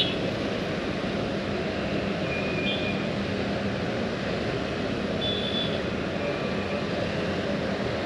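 Steady running noise of a moving vehicle, with a low hum and a few short, faint high squeaks or chirps over it.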